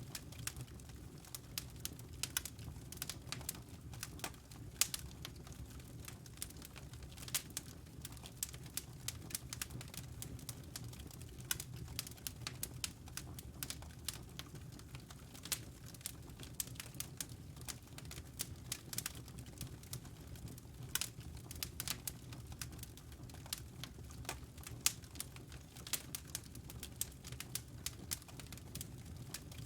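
Wood fire crackling in a fireplace: irregular sharp pops and snaps, several a second, over a steady low hum of the burning.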